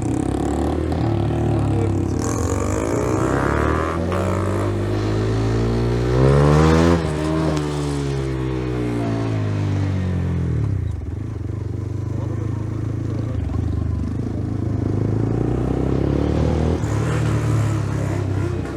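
125 cc single-cylinder motorcycle engine on the move, revving up to a loud peak about seven seconds in and easing back down, then running fairly steadily.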